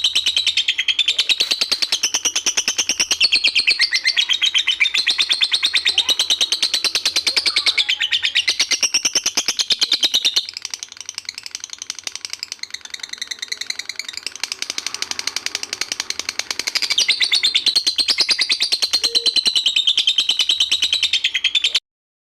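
Lovebird singing its long 'ngekek': a rapid, unbroken chattering trill of many high notes a second. It drops quieter for several seconds in the middle, then comes back at full strength and cuts off abruptly near the end.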